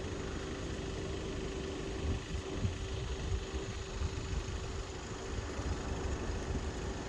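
Steady hum of an idling vehicle engine, with a low, uneven rumble of wind on the microphone.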